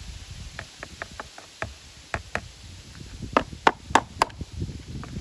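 Small carburetor parts and tools being handled: a string of light taps and clicks, with four sharper knocks about three to four seconds in.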